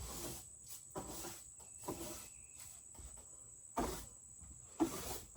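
About five short knocks and clatters, roughly a second apart, over a faint steady high-pitched whine.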